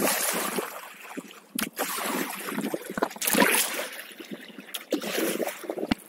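Kayak paddle strokes splashing and swishing through river water, a surge every second or two, with a couple of sharp knocks.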